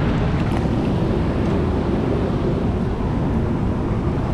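Steady rushing noise of water spilling over a low-water dam, mixed with wind buffeting the microphone.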